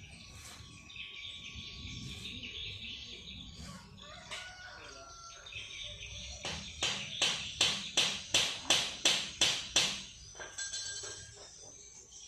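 Songbirds calling: a buzzy high chatter, then a loud run of about a dozen sharp repeated notes at roughly three a second, ending in a few thin chirps.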